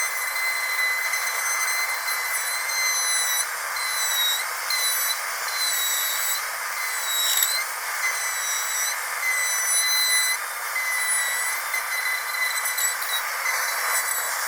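Dental drill whining at a steady high pitch over a constant hiss, the pitch dipping briefly several times.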